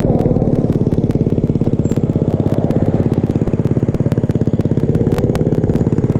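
Small motorbike engine running at a steady speed, with an even, rapid throb and sharp ticks clattering over it.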